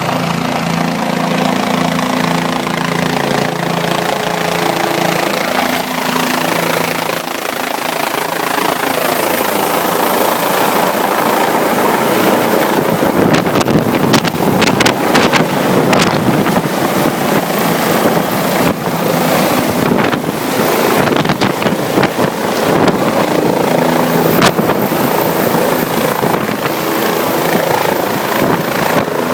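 Helicopter coming in to land. A steady rotor and engine hum pulses for the first several seconds, then gives way to a dense rushing noise that grows a little louder, with gusts of rotor wash buffeting the microphone in the second half.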